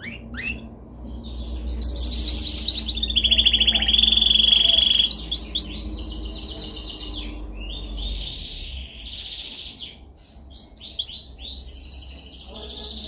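Domestic canary singing a long song of fast trills and rolling repeated notes, loudest in a steady, rapid trill about three to five seconds in. A constant low hum runs underneath.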